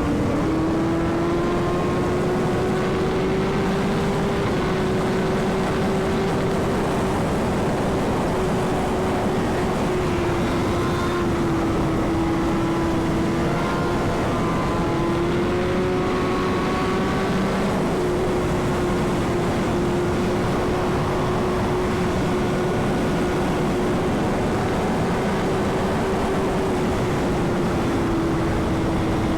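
Superbike engine holding a steady cruising speed, its pitch staying nearly level with slight rises and dips, under a dense rush of wind noise.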